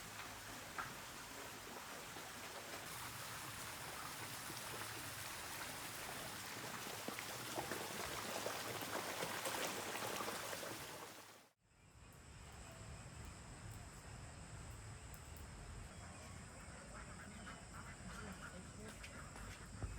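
Steady rain falling with a dense patter of drops, growing a little louder, then cut off abruptly about eleven and a half seconds in. It is followed by quieter outdoor ambience with two steady high-pitched tones and scattered animal calls.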